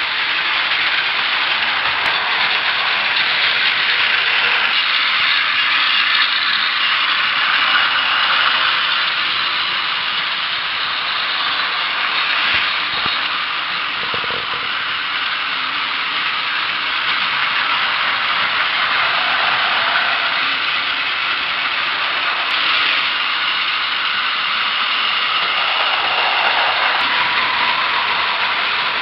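Battery-powered Plarail toy trains running on plastic track: a steady, high, buzzing whir of small motors and plastic gears, swelling and fading slightly as the trains move.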